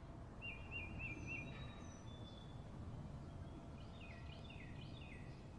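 Faint birdsong over a low background hiss: a short trill about half a second in, a few thin whistled notes, then a quick series of three or four downslurred chirps near the end.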